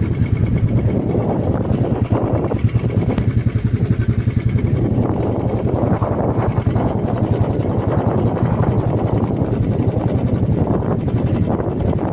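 Motorcycle engine running steadily while riding, a dense low pulsing throb with no break.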